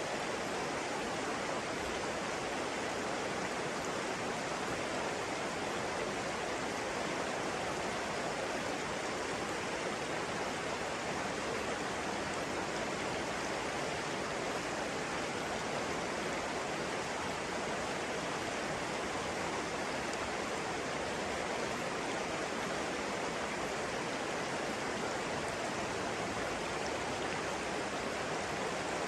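Steady rushing of flowing water from a stream, an even, unbroken wash of sound.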